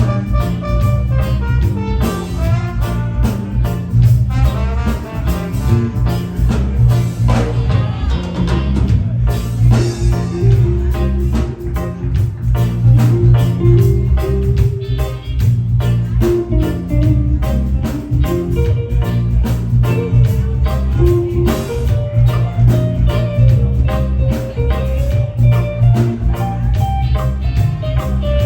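Live reggae band playing, with a heavy bass line and drum kit under guitar, keys and melodic lead lines.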